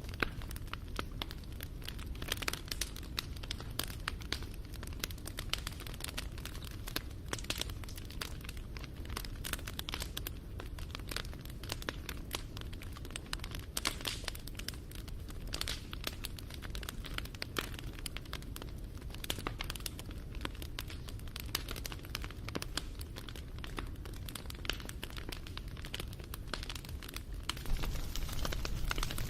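Wood fire crackling, with dense, irregular pops and snaps over a low rumble of flame that grows a little louder near the end.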